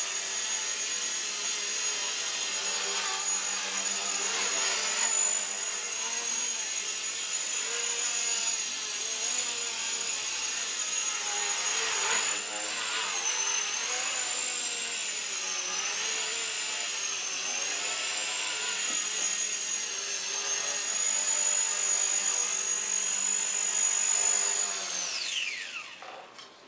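Walkera CB100 micro RC helicopter's electric motors and rotors running with a steady high whine, the pitch wavering up and down a few times midway, then winding down to a stop near the end.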